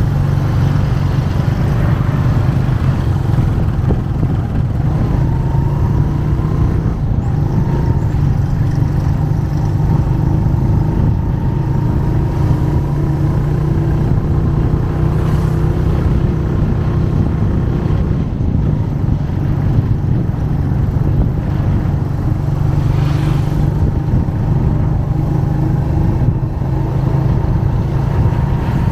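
Motorcycle engine running steadily under way, a low, even hum heard from the rider's seat.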